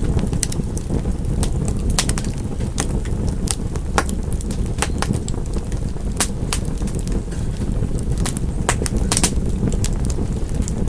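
Fireplace fire crackling: irregular sharp pops and snaps over a steady low rumble of the flames, with a few louder pops about four, six and nine seconds in.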